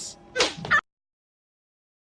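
A short voice-like sound with a rising pitch at its end, cut off abruptly under a second in, followed by dead silence.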